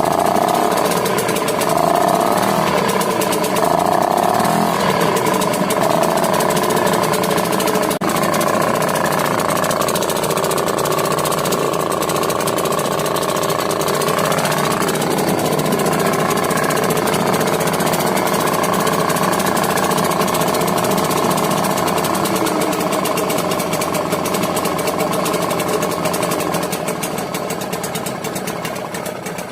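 EMECE outboard motor, a Spanish copy of the British Seagull, running steadily with a fast, even, rattling beat of firing strokes.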